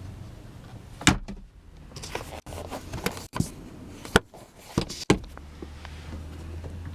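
A handful of sharp clicks and knocks, spaced irregularly about a second apart, over a low steady hum.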